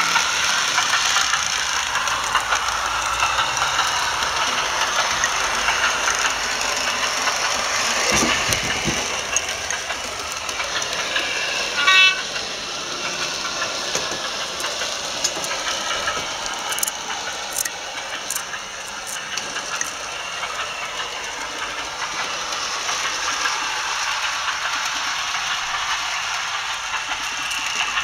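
Model class 108 diesel multiple unit's SWD sound decoder playing diesel engine running sound through its small onboard speaker, thin and hissy, with the model's wheels running on the track. About twelve seconds in, the loudest sound is a brief horn toot.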